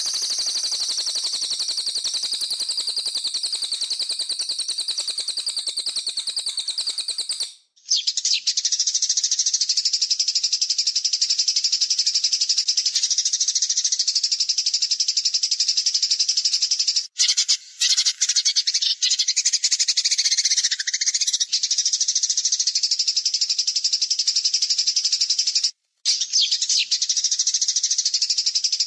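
Songbird masteran recording of continuous, rapid, high-pitched trilling calls ('tembakan'), repeated without pause. The recording breaks off briefly about 8 s in and again near 17 and 26 s, where looped segments are spliced together.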